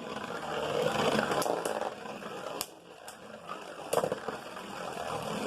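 Beyblade Burst tops Wonder Valkyrie and Orb Aegis spinning and grinding against each other in a plastic stadium, a rough scraping rattle with a few sharp clacks as they collide.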